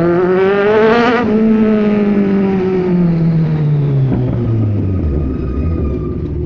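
Kawasaki Z1000's inline-four engine revving up under acceleration for about a second, then its pitch falls steadily over several seconds as the throttle is rolled off. A low rumble remains near the end.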